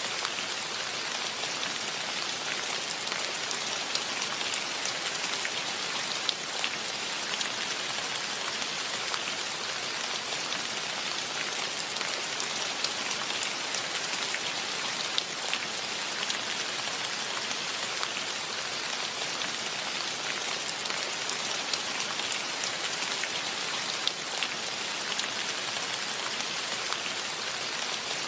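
Steady rain falling: a dense, even hiss with many individual drops ticking on near surfaces, and a few louder single drops standing out now and then.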